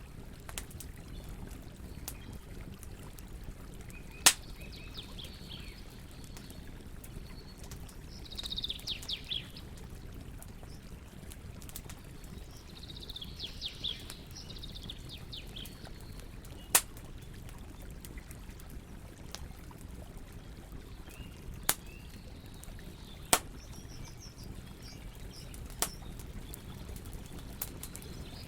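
Campfire of burning wood giving scattered sharp pops, the loudest about four seconds in, over a steady low rush of flowing water. Songbirds chirp in a few short bursts.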